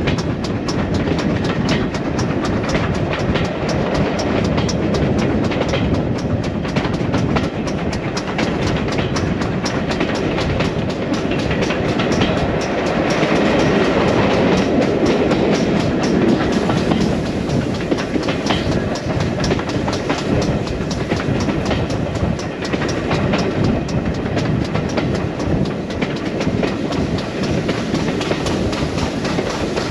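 Steam-hauled passenger train running along the line, heard from on board a coach: a steady rumble with the wheels clicking over the rail joints. It grows a little louder for a few seconds about halfway through.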